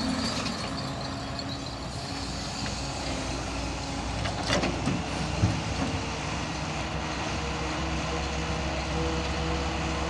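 Heavy vehicle engine running steadily, with a sharp click about four and a half seconds in and a knock about a second later.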